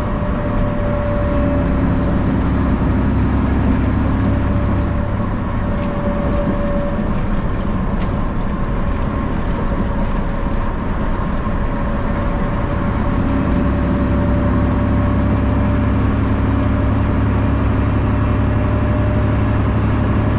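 Straight-piped Detroit Diesel 12.7 (Series 60) inline-six in a Freightliner truck, running under way with a steady deep exhaust drone. It grows louder from about a second in to about five seconds, and again for the last several seconds, with a thin steady whine above it.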